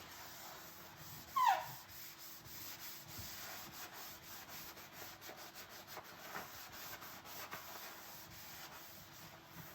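Dishes being scrubbed by hand with a sponge: soft, repeated rubbing strokes, with one brief squeak of wet dishware about a second and a half in.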